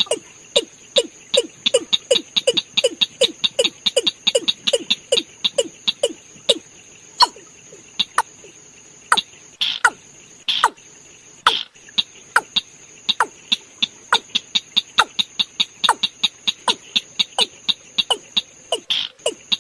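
Watercock (cúm núm) calling: a rapid run of short, clipped notes that drop in pitch, several a second, pausing briefly a few times before carrying on. A steady high-pitched tone sits beneath the calls.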